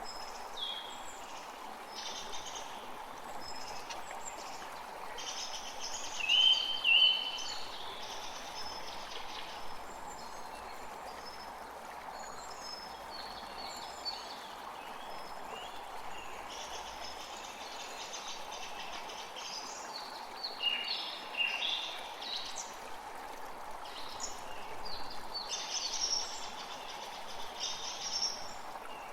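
Forest creek running steadily, with several songbirds chirping and trilling over it. The loudest calls come about six seconds in, with more clustered later on.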